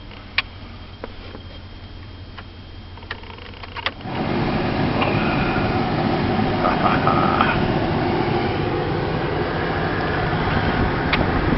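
Inside the cab of a 1998 Dodge extended-cab pickup with the engine running: a low steady hum with a few sharp clicks, then about four seconds in a loud, steady rushing noise starts and holds.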